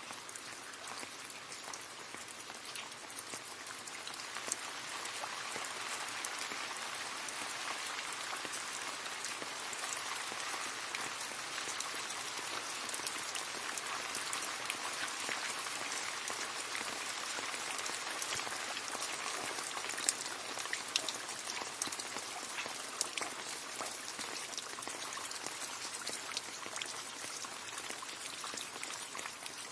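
Rain falling steadily, drops pattering and splashing into a puddle, a dense hiss scattered with sharper individual drop ticks. It grows a little heavier a few seconds in.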